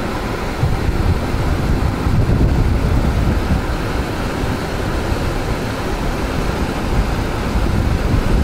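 Steady rushing roar of a waterfall, an even noise heavy in the low end.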